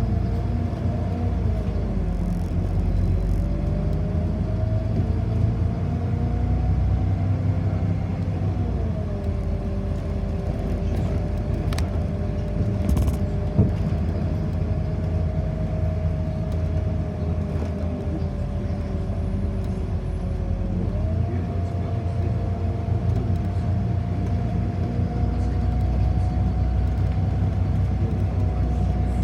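Inside a city bus in motion: a steady low rumble with a pitched motor whine that rises and falls as the bus speeds up and slows down. It dips about a third of the way in and rises again about two-thirds in.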